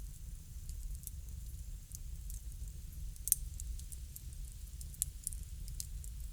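Crackling wood fire: irregular small pops and snaps over a low steady rumble, with one louder pop about halfway through.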